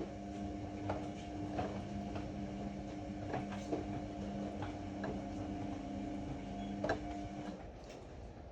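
Ariston AML125 washer-dryer running, its drum motor giving a steady hum under irregular clicks and knocks as the drum turns. The hum stops about three quarters of the way through as the drum pauses.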